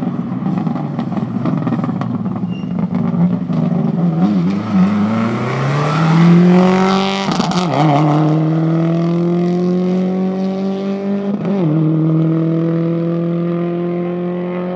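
Rally car engine accelerating hard, its pitch climbing through the gears, with sharp drops at two upshifts, about seven seconds in and again about four seconds later.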